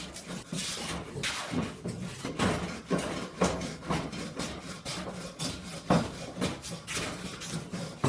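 Hand work on wood: repeated scraping, rubbing strokes with knocks, about two a second, irregular in strength.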